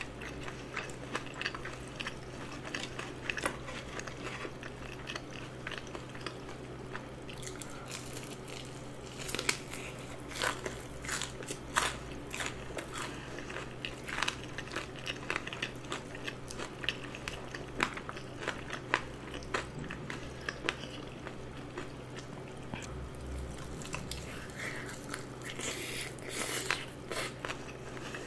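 Close-miked chewing of a seasoned fried chicken drumstick, with many short, sharp crunches of the crisp coating between the teeth and wet mouth sounds. The crunches come in clusters, thickest about a third of the way in and near the end.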